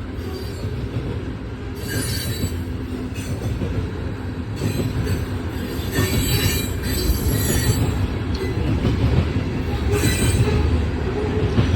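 Freight train cars rolling past at a grade crossing: a steady low rumble with high wheel squeal that comes and goes a few times.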